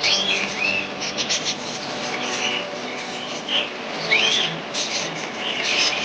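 A group of budgerigars chirping and chattering: many short, overlapping calls, some sliding up and some down in pitch, with a fuller rising call about four seconds in.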